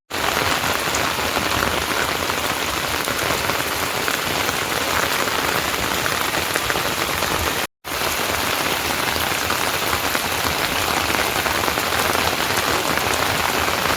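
Steady heavy rain falling and pattering on surfaces, broken by a brief cut to silence about halfway through.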